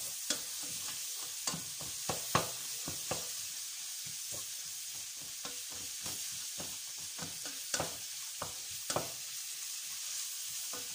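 Shredded white cabbage frying in oil in a stainless steel pot with a steady sizzle, while a spatula stirs it, knocking and scraping irregularly against the pot.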